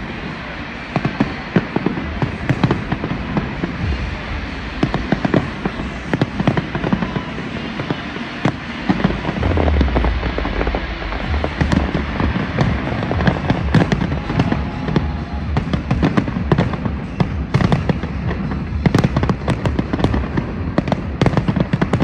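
Large fireworks display: a continuous barrage of bangs and crackling from bursting shells, with a stretch of deep booms about ten seconds in.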